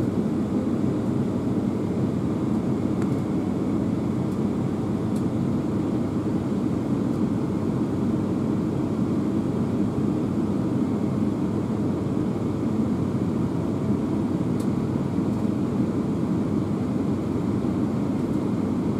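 Running noise inside the passenger saloon of a Class 350 Desiro electric multiple unit at speed: a steady, even rumble of the train travelling along the line.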